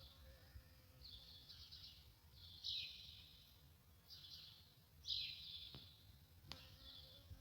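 Songbirds singing faintly: short, high trilled phrases about every second and a half, the loudest two ending in a falling sweep. Two sharp clicks come near the end.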